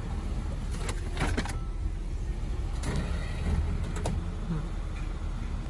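A car's engine idling steadily with a low rumble, heard from inside the car, with a few light clicks over the top.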